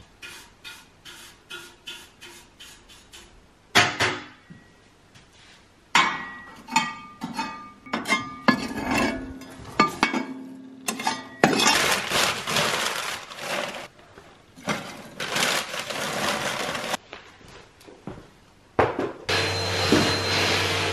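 Dishes and glassware clinking and clattering: a quick run of light clinks, then heavier knocks and long stretches of busy clatter. A vacuum cleaner starts up near the end with a steady hum.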